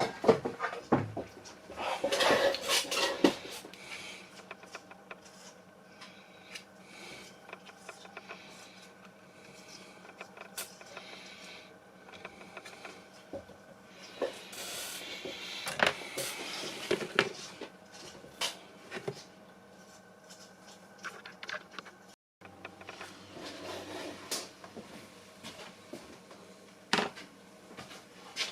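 Small hard parts and tools being handled during a multimeter repair: scattered clicks, taps and short clattering bursts over a faint steady hum. The sound cuts out for an instant about two-thirds of the way through.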